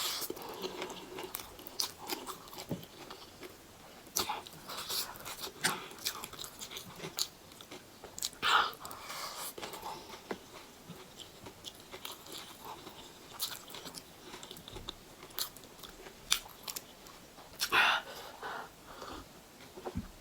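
Close-up chewing and biting of food, with crunches and small mouth clicks scattered throughout and two louder moments about eight and eighteen seconds in.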